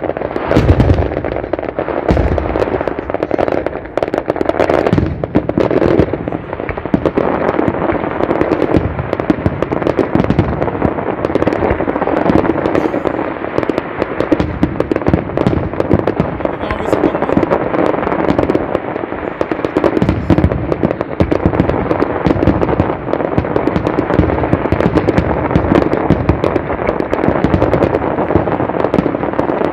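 Fireworks display: a dense, unbroken barrage of bangs and crackling from many shells bursting at once, many reports every second with no let-up.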